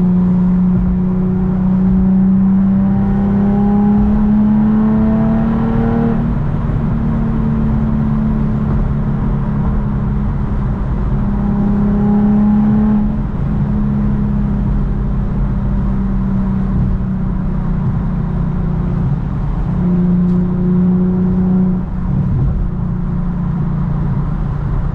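Infiniti G37's V6 running through test pipes, with its catalytic converters removed, so the exhaust is much louder than stock. The pitch climbs and drops back three times: the engine is pulling up through the revs and easing off.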